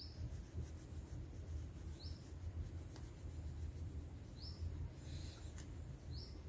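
A short, high, rising chirp repeating about every two seconds, a small bird calling, over faint rubbing of a crayon on paper and a steady low hum.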